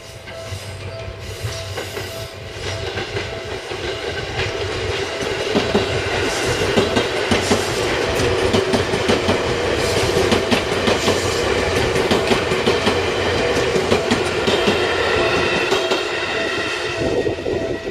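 Electric commuter train passing on the Seibu lines. It grows louder over the first several seconds, then its wheels click rapidly over the rail joints as the cars go by.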